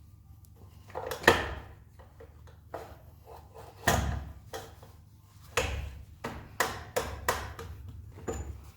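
Irregular knocks and clatters of tools and model parts being handled, about a dozen in all, the loudest about a second in and a quick run of them in the second half.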